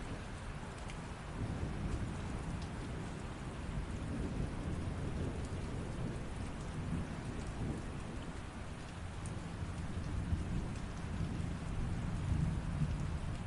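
Steady rain with a low rolling rumble of thunder that comes in about a second and a half in and swells again near the end.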